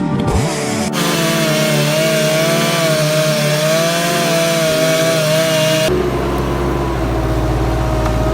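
Chainsaw running at high revs and cutting wood, its engine note wavering under load. About six seconds in it gives way abruptly to a steadier machine drone with a heavy low rumble.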